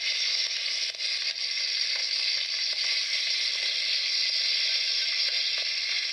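Campfire of firewood burning hard: a steady hiss with scattered small crackles.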